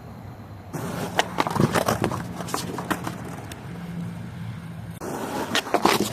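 Skateboard rolling on pavement, with a string of sharp, irregular clacks and knocks from the board and wheels.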